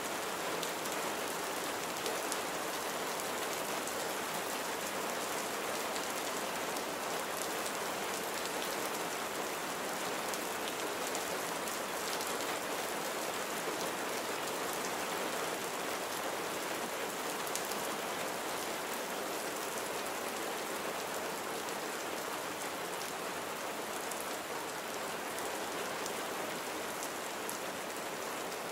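Steady rain, an even hiss of falling water with many small drop impacts through it.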